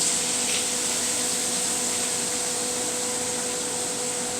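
Bite-sized shrimp sizzling steadily in a hot frying pan, just after being dropped in.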